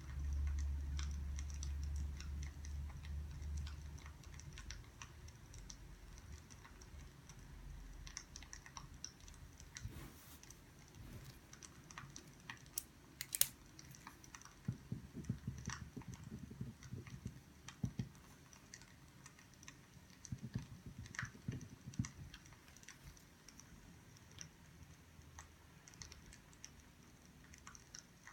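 Burning firewood crackling, with irregular sharp pops and clicks. A low rumble sounds through the first few seconds.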